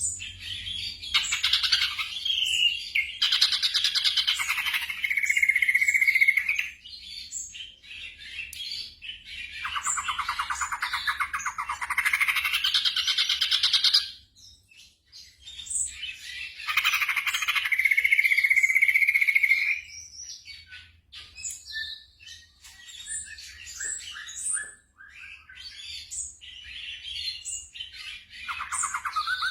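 Black drongo singing: three long phrases of rapid, harsh chirping and trilling notes, each several seconds long, with shorter scattered calls between them.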